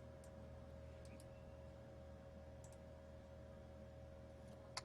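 Near silence with a steady faint hum, broken by a few faint computer mouse clicks, the loudest near the end.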